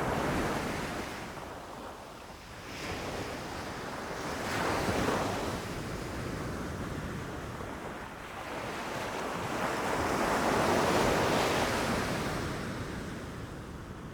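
Ocean surf rushing and crashing, the wash of the waves swelling and easing off in three surges, the longest and loudest near the end.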